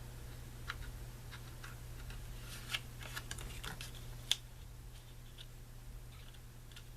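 Faint, scattered light taps and clicks of paper and a ruler being handled and set in place on a page, with a sharper tick about four seconds in, over a steady low hum.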